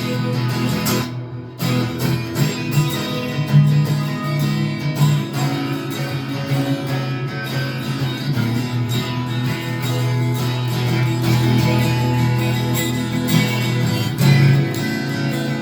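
Acoustic guitar playing an instrumental break in the key of E between sung verses, strummed and picked in a steady rhythm with no singing, dipping briefly about a second in.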